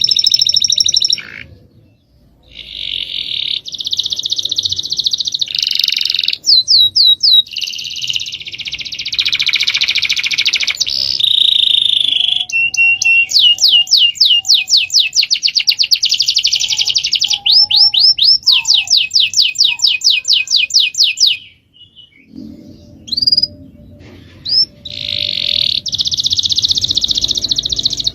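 Small songbirds singing loudly: rapid trills and long runs of fast, repeated sweeping high notes, broken by two brief pauses, one about two seconds in and one about three quarters of the way through.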